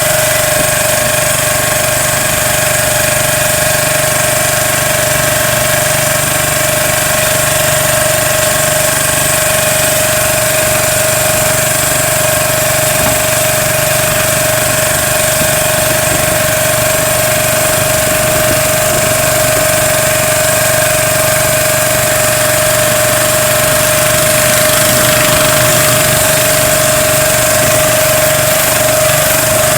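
An engine running steadily at an even speed, with a constant droning tone over it, growing slightly louder near the end.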